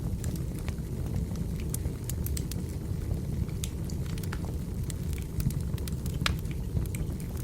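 Wood fire crackling: a steady low rumble of burning logs with frequent sharp pops and snaps scattered throughout.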